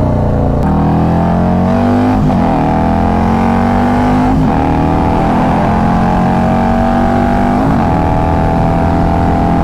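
Harley-Davidson Road Glide's V-twin engine running at speed, its pitch climbing slowly with three brief dips along the way.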